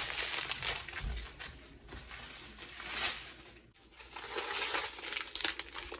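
Small plastic bags of diamond-painting drills rustling and crinkling as they are handled, with light irregular crackles and taps.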